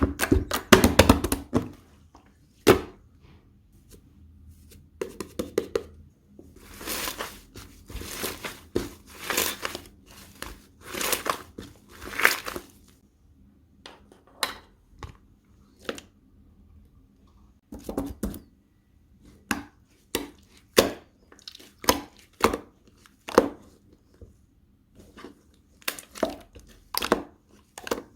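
Slime being worked by hand, squeezed, poked and stretched, giving irregular sticky clicks, pops and short crackling bursts.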